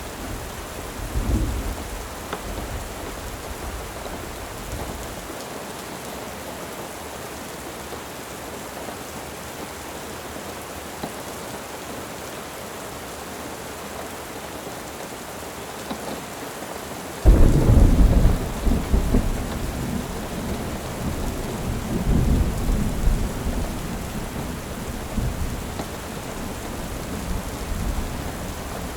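Steady rain with thunder: a low rumble dies away in the first few seconds, then a sudden loud thunderclap about two-thirds of the way through rolls on and slowly fades.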